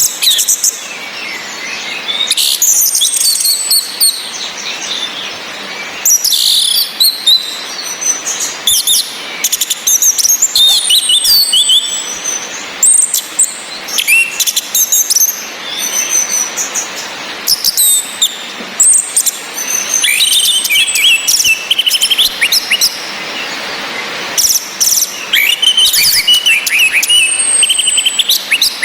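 Orange-headed thrushes singing and calling in phrases of varied song: high whistles that slide downward and rapid trills, with short pauses between. A steady hiss of rain runs underneath.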